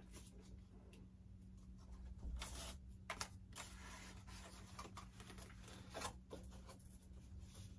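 Faint rustling, scraping and light clicks of hands working on a foam model airframe and its wiring, in a few short bursts, over a steady low hum.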